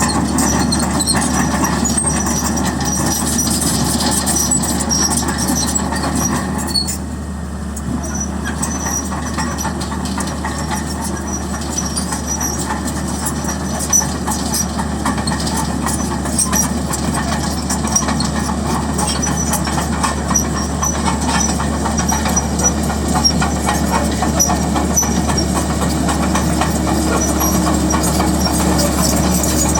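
Large bulldozer at work: a steady diesel engine drone with frequent metallic clanks and rattles from its steel crawler tracks, dipping briefly about seven seconds in before picking up again.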